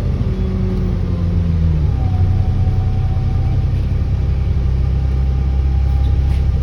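Alexander Dennis Enviro400 double-decker bus's engine running under way, its note dropping about two seconds in, as at a gear change. A thin steady turbo whine sits above the engine from then on.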